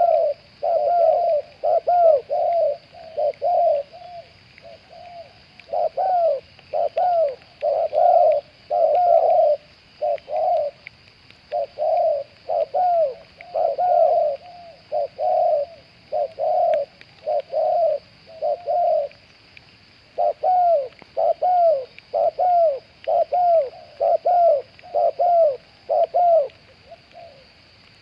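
Spotted doves cooing: phrase after phrase of short, arching coo notes with brief pauses between phrases.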